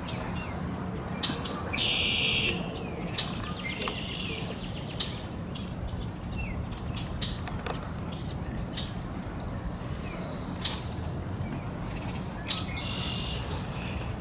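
Small birds chirping and calling: short high chirps and sharp ticks scattered throughout, a harsher, buzzy call about two seconds in and again near the end, and a loud high whistled note just before the ten-second mark, over a steady low background hum.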